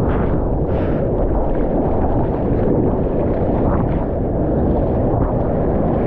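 Steady, loud rumble of wind buffeting the microphone mixed with the noise of big-wave surf and whitewater.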